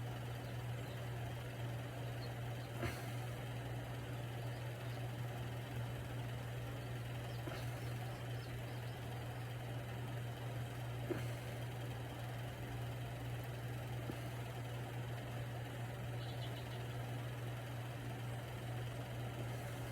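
Steady low electrical or motor hum, with a couple of faint clicks.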